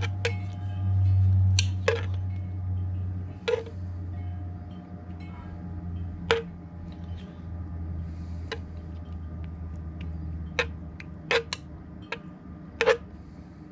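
A dozen or so sharp, ringing chime-like strikes at irregular intervals over a steady low hum; the hum fades out about ten seconds in.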